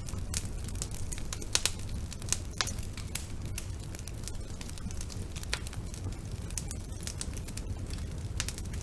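Wood fire burning in a fireplace: irregular crackles and sharp pops over a steady low rumble of the flames, the loudest pops about a second and a half in.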